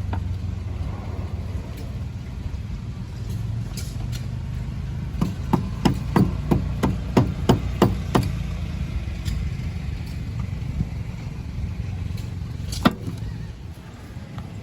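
A quick run of about a dozen sharp knocks, roughly four a second, lasting about three seconds, then one more single knock near the end, over a steady low rumble.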